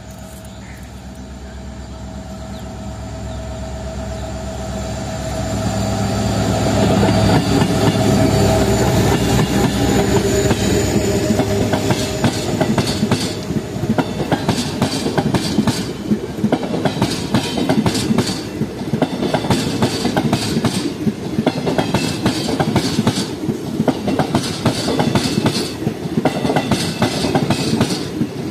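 Howrah–Balurghat Express passenger train approaching and passing. The sound builds over the first several seconds, with a steady tone that fades as the locomotive goes by. The coaches' wheels then give a rhythmic clickety-clack over the rail joints.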